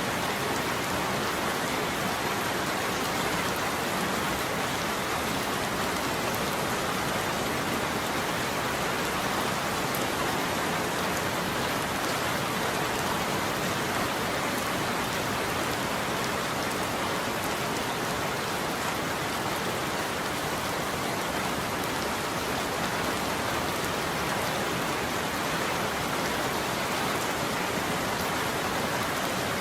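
Steady rain falling on a roof, an even patter of many drops that holds constant throughout.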